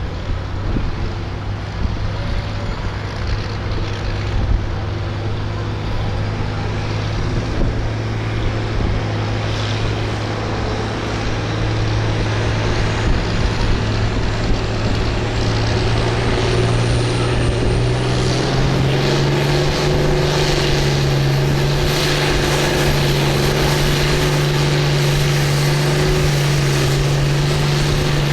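Farm tractor's engine running hard under load, pulling a weight sled. The engine note climbs and gets louder, stepping up in pitch about two-thirds of the way through, with a high whine rising above it.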